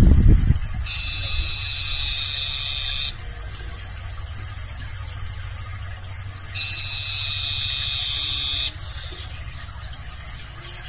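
Barn owl giving two long hissing screeches, each about two seconds, the second about three and a half seconds after the first. A brief low rumble at the very start is the loudest sound.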